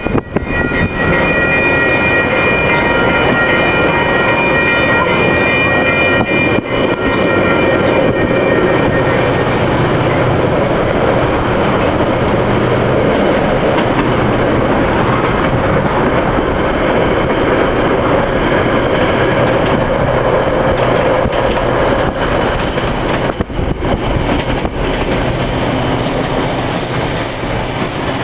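Metra commuter train of stainless-steel bi-level passenger cars rolling past at speed, heard from a car driving alongside: a loud, steady rumble of wheels on rail, with a high steady whine over the first nine seconds or so.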